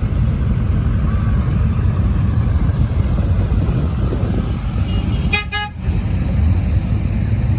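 A car horn sounds once, a short toot about five seconds in, over a steady low rumble of vehicles.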